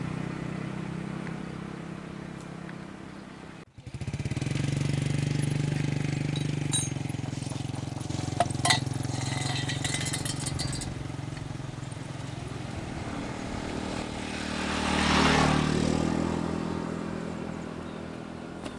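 Paddy-field tractor's engine running steadily. It cuts out abruptly about four seconds in, comes straight back, and swells louder near the end.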